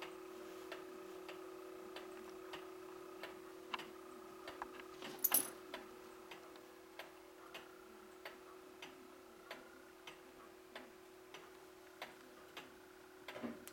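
A clock ticking evenly, a little under two ticks a second, over a steady low hum, with one brief sharp sound about five seconds in.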